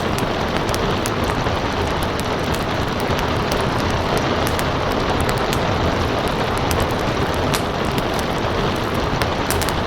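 Steady rain, with the frequent irregular snaps and pops of a crackling wood fire over it.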